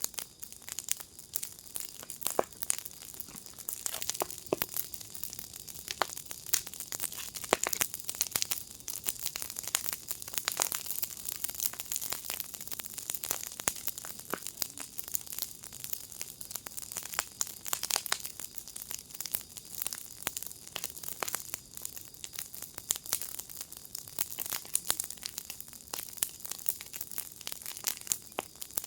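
Wood fire in a firepit crackling: a dense run of sharp pops and snaps over a steady high hiss, with a few louder pops.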